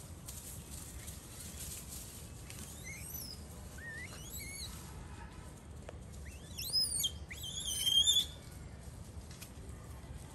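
A wild bird calling: several whistled notes that rise and fall in pitch, the last two louder, about two-thirds of the way through, over a steady low background noise.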